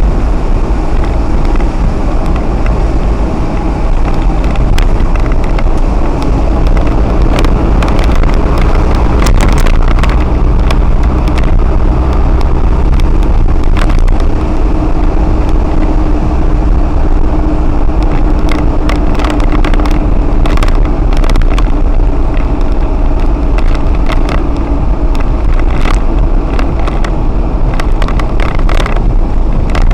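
Lorry driving on a highway: a loud, steady, low road-and-engine rumble with many scattered sharp ticks.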